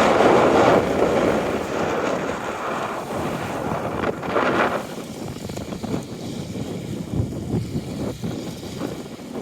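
Lake water washing and lapping at the shore, with wind on the microphone. A louder wash at the start and another swell about four seconds in, then softer lapping with small splashes.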